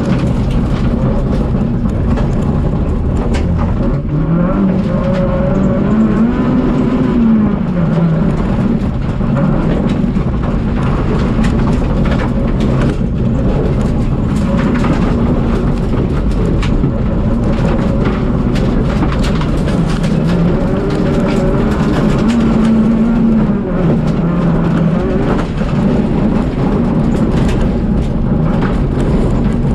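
Citroën Saxo VTS rally car's four-cylinder engine driven hard, its pitch climbing and dropping again every few seconds as it accelerates and lifts through corners, with scattered sharp clicks throughout.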